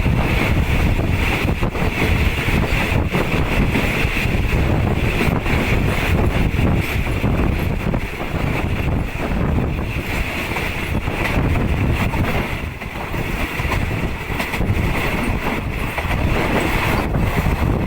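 Steady rumble of a moving passenger train from inside a third-class carriage, with wind from the open windows buffeting the microphone.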